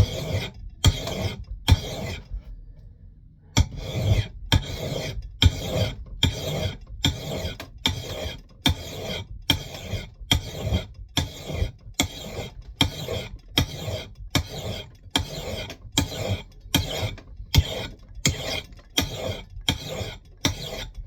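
Steel hand file rasping in long, even strokes across the bit of a Mann Edge Tool Company knot clipper axe, about three strokes every two seconds. There is a short pause a little after two seconds in, then the strokes resume.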